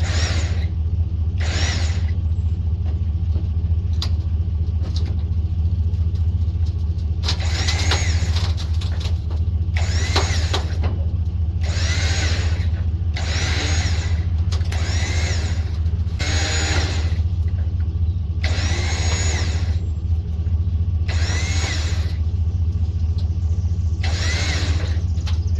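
A steady low engine drone, with a power unit being pulsed in short bursts about every second or two from a third of the way in, each burst's whine sweeping up and back down.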